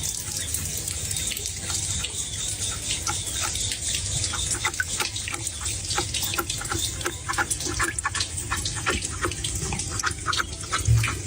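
Water running and splashing, with many short splashy clicks that come more often from about four seconds in.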